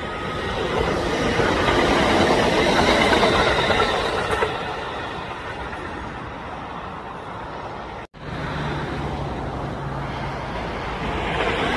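Kintetsu electric train passing: a rushing noise that builds for a few seconds and then eases off. It drops out for an instant about eight seconds in, then the noise picks up again and grows louder near the end.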